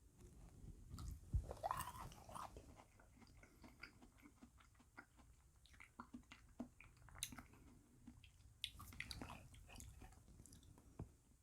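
Bead ice cream being eaten close to the microphone: many small, crisp crunches and clicks as the frozen pellets are bitten and chewed. They come thickest about a second in and again near the end.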